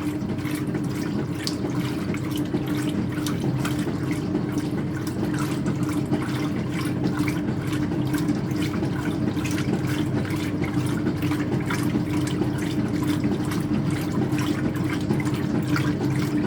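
Speed Queen top-loader washing towels in its agitate phase: water sloshing and churning steadily in the tub, over a steady low hum from the machine.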